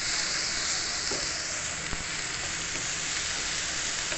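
Chopped onions sizzling in oil on a tawa (flat griddle) as they are stirred with a wooden spatula, with a few faint scrapes of the spatula across the pan.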